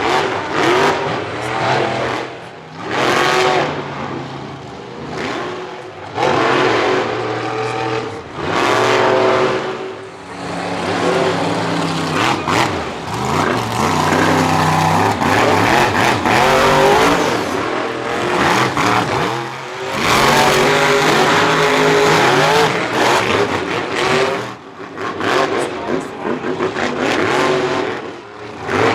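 Monster truck engines revving hard again and again, the pitch climbing and dropping with each burst of throttle, with short lulls between runs.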